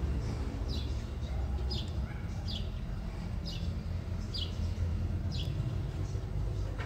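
A small bird's short, high, falling chirp, repeated about once a second, seven times in all, over a steady low rumble.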